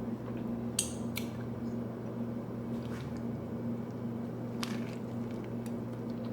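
Handling and biting into a soft, stuffed steak pita sandwich: soft squishy handling noise with a few light clicks, over a steady low hum.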